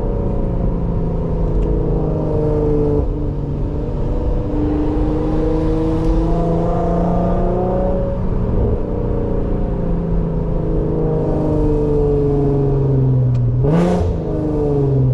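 Car engine and exhaust pulling under acceleration: the revs climb slowly, drop at a gear change, and climb again. Near the end there is a quick rise and drop in revs, then the revs fall away as the car slows.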